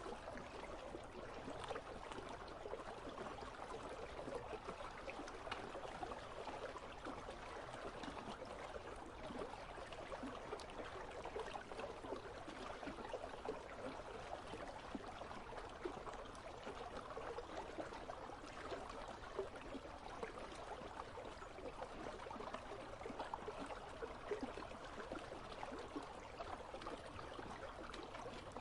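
Icy river flowing: a steady rush of running water with fine babbling and trickling detail.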